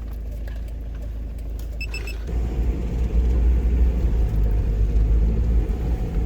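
Car driving, heard from inside: a low engine and road rumble that grows louder about two seconds in, with a short high beep just before.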